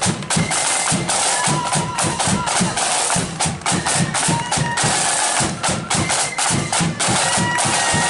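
Marching flute band playing: flutes carry a melody of held high notes over rapid, continuous drumming.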